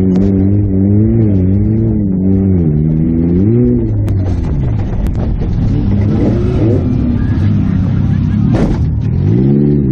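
Toyota Matrix demolition derby car's four-cylinder engine revving up and down under hard driving, heard from inside the stripped cabin. Several knocks and a loud bang about eight and a half seconds in, then the engine climbs again near the end.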